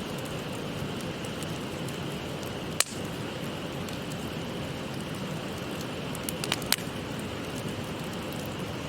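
Wood fire crackling, with a few sharp pops: a loud one about three seconds in and two close together later, over the steady rush of a shallow stream.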